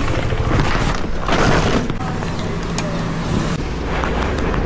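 Road traffic noise: motor vehicles running, with a few louder rushes of noise.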